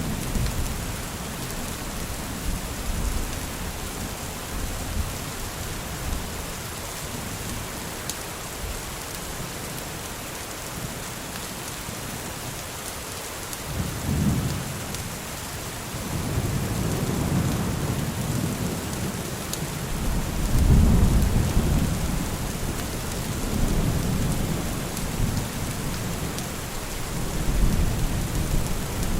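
Steady heavy rain with thunder rolling in low rumbles several times in the second half, the loudest swell about two-thirds of the way through.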